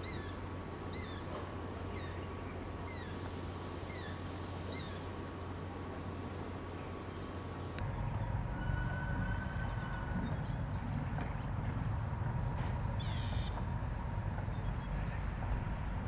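Outdoor wildlife ambience. For the first half, a bird calls in short sharp chirps, about one or two a second. About eight seconds in, the sound changes abruptly to a steady high-pitched hiss or drone over a low rumble, with a few faint bird notes.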